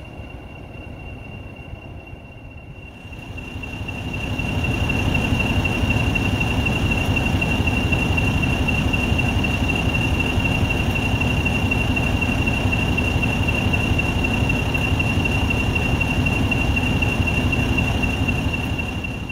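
A heritage railway train running past with a steady high-pitched squeal. The train gets louder about four seconds in, holds, and falls away near the end.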